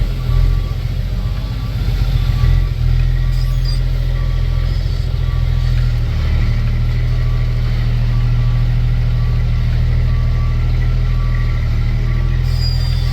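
The M11 Cummins diesel of a 2001 International 8100 dump truck running, heard from inside the cab, with the truck's backup alarm beeping at a steady pace as it reverses. The engine note grows louder about halfway through.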